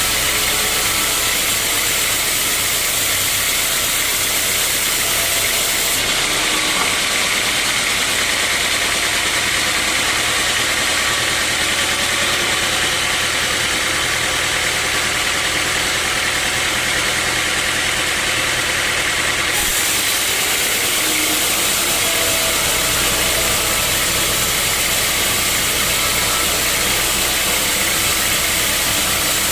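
Sawmill machinery running steadily with a constant mechanical drone and hiss. The tone shifts for about thirteen seconds from around six seconds in, then returns to how it was.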